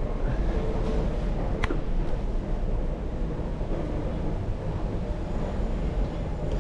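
Hold-to-run wheelchair lift running with its button held down, a steady low rumble, with one sharp click about a second and a half in.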